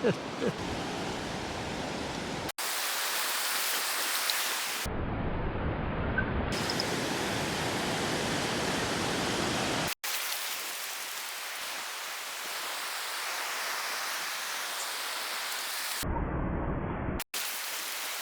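Steady rush of surf breaking on a sandy beach, mixed with wind on the microphone, broken by a few abrupt cuts where the sound drops out for an instant.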